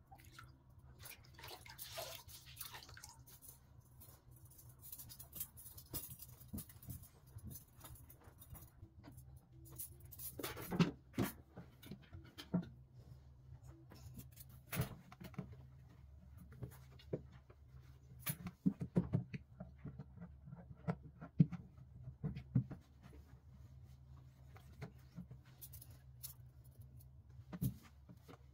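Scattered clicks and knocks of household objects being handled and set down, with a few sharper knocks in the middle and later part, over a steady low hum.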